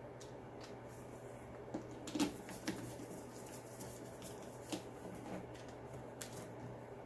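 Small clicks and handling noises of screws being tightened with a screwdriver into a plastic leaf blower housing, a few sharper ticks scattered through, over a steady low hum.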